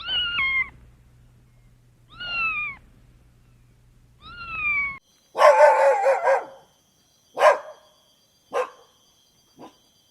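A cat meowing three times, each meow short and falling in pitch, about two seconds apart; then a dog barking: one longer, rougher bark followed by three short barks, each fainter than the last.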